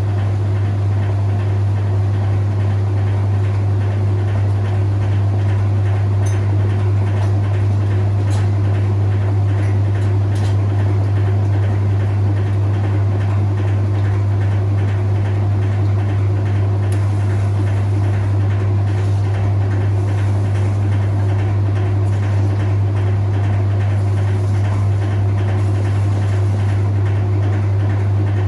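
Whirlpool 3RLSQ8033SWD top-loading washing machine running steadily as it pumps out its wash water, with a loud, unbroken low hum.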